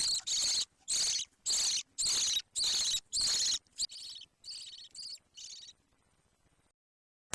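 Baby budgerigar giving a series of rasping, high-pitched calls, about two a second, with about ten calls in all. The calls are loud for the first half, then softer, and stop about six seconds in.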